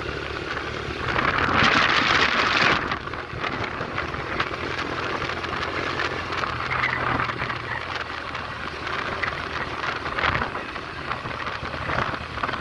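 Wind rushing over the microphone of a moving 125cc motorcycle, with the bike's small single engine running steadily underneath. The rush swells louder for a second or two about a second in.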